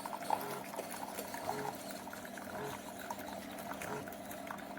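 SiFENE 3-in-1 single-serve coffee maker brewing: a steady stream of coffee running into a glass mug, with scattered small gurgles from the machine.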